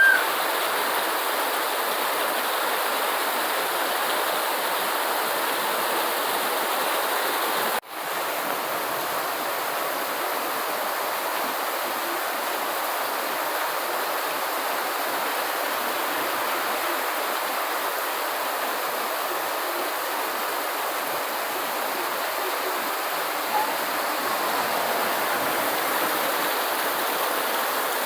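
Steady rain falling, an even unbroken hiss, with a brief dropout about eight seconds in.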